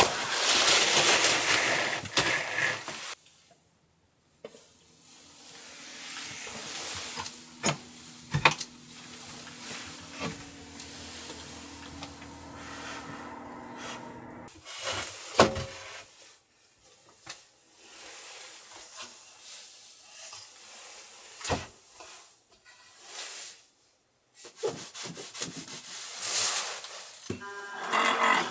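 Close-up handling sounds: rustling and rubbing, a loud hiss near the start, and scattered sharp clicks and knocks.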